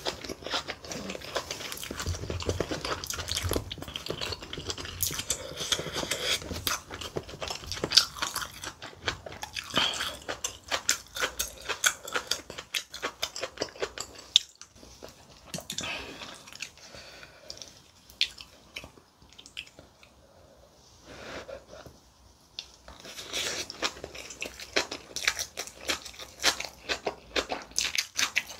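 Close-miked chewing of kimchi and rice: crunchy, wet bites and mouth smacks, going quieter for a few seconds about two-thirds of the way through, then picking up again.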